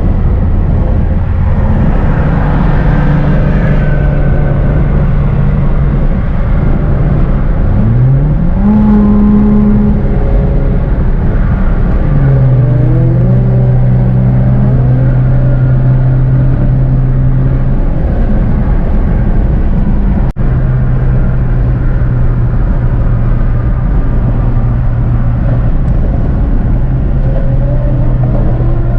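Car engine and road noise while driving. The engine pitch climbs sharply about 8 seconds in as the car accelerates, changes again around 12 seconds, then settles into a steady drone.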